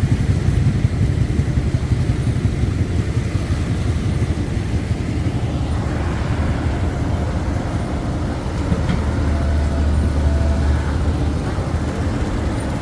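Low, steady sound of heavy diesel engines running, from the recovery machinery and road traffic, growing louder for a few seconds past the middle.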